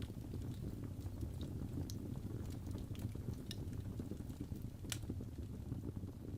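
Wood fire crackling in a fireplace: a steady low rumble of flames with scattered sharp snaps and pops, one louder pop about five seconds in.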